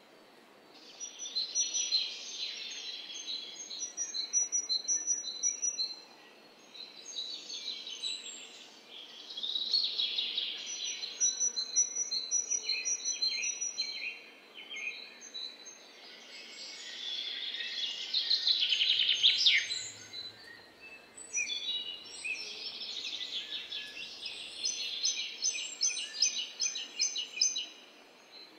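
Several songbirds singing and chirping, with quick repeated high notes and trills, in stretches of a few seconds broken by short lulls.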